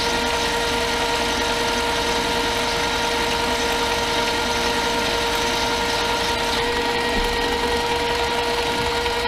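Harbor Freight mini lathe running steadily, its motor and gearing giving a constant high whine.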